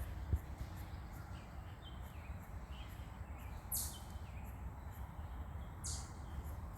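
Small birds chirping: a few faint short chirps, then two louder, harsh high calls about two seconds apart, over a low steady rumble.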